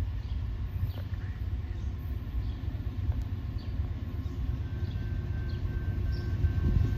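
Low rumble of an approaching diesel freight train, slowly growing louder, with birds chirping over it.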